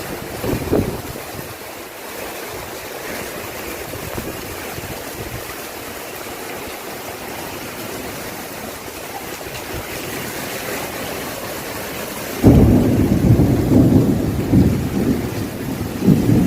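Steady rain falling. About three-quarters of the way through, a loud, uneven low rumble starts suddenly: thunder or wind buffeting the microphone.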